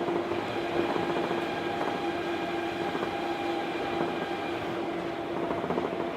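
Onboard running sound of an Osaka Monorail 1000 series car, a rubber-tyred straddle-type monorail, travelling between stations. A steady rumble of running noise carries a constant motor whine held at one pitch.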